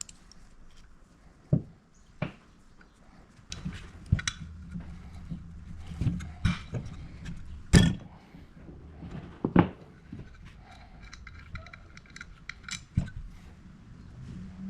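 Scattered sharp knocks, clicks and thunks of hand tools and metal parts being handled during carburettor work, over a low steady hum that starts a few seconds in.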